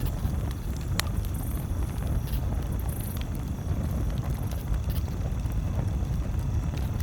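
Campfire crackling, with scattered sharp pops (the loudest about a second in) over a steady low rumble.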